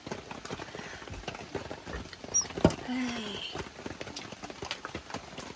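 Rain pattering in irregular drops on a tent or tarp, with a single sharp knock about two and a half seconds in.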